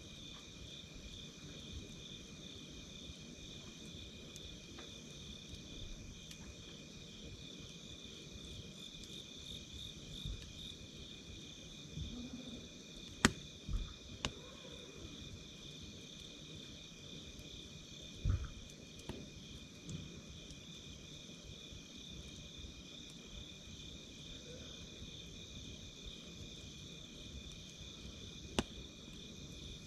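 Night insects chirping in a steady, fast pulsing high trill, with the wood fire underneath giving a few sharp crackling pops, the loudest about 13 s in and again near 18 and 28 s.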